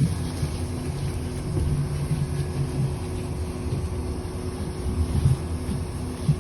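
City bus running on the road, heard from inside the cabin: a steady low engine and road rumble with a faint steady whine, and two short knocks near the end.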